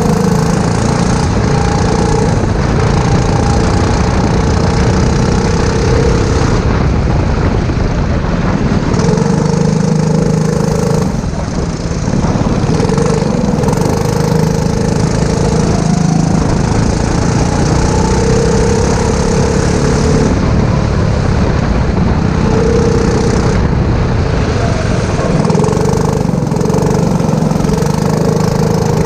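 Go-kart engine running under load on track, its pitch rising and falling as the driver comes on and off the throttle, with a short lift about twelve seconds in.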